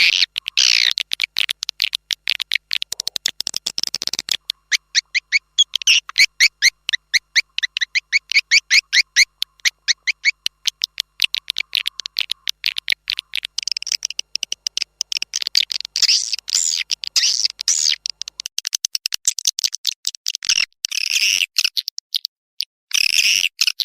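Recorded swiftlet calls used as a swiftlet-house call lure: rapid trains of short, high chirping clicks, several a second, repeating in long runs with brief gaps.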